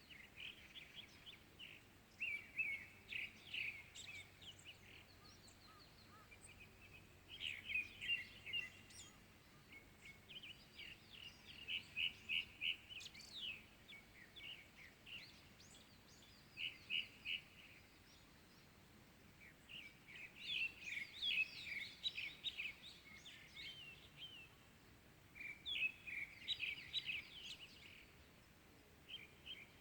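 Songbirds singing in the early morning: bouts of quick, high chirping notes lasting a second or two, repeated every few seconds with short pauses between.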